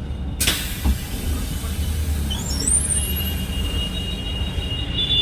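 Scania Metrolink multi-axle coach running, a steady low engine and road rumble, with a sudden hiss about half a second in that trails off over the next few seconds.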